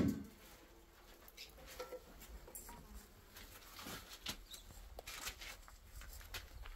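A sharp knock, then a string of faint, scattered clicks and light rustling.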